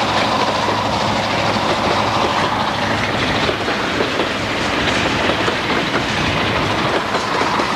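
Freight train wagons loaded with soybeans rolling past at speed, their wheels clicking over the rail joints in a steady stream. A low engine hum fades out in the first second.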